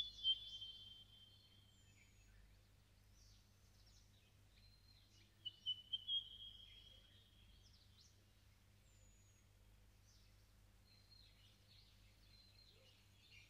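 Birdsong: two bright phrases of high whistled notes, one at the start and another about five and a half seconds in, with faint scattered chirps in between, over a faint steady low hum.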